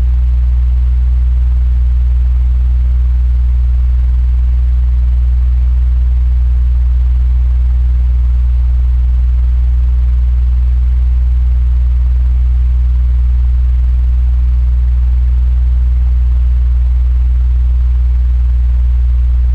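Electric fan running steadily: a strong, even low hum from the motor under a smooth rush of moving air, with no change throughout.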